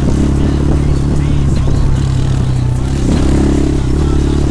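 Enduro motorcycle engine running steadily under way, with a brief dip and change of pitch about three seconds in.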